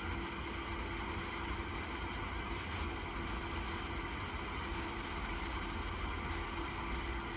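Steady hum of a welding machine running at idle, with one faint steady tone over a low rumble and no change throughout.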